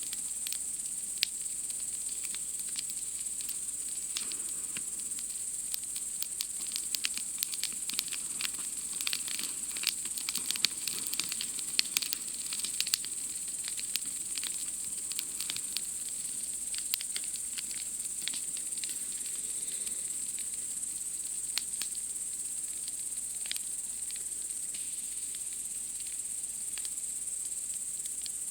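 Wood campfire crackling with scattered sharp pops, busiest in the first half, over a steady high-pitched chorus of night insects.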